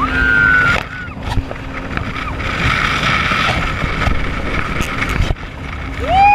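Jet ski running at speed, its engine and water spray blending into a steady rushing noise with wind on the microphone. A short high steady tone sounds at the start, and a louder pitched tone rises, holds and falls at the very end.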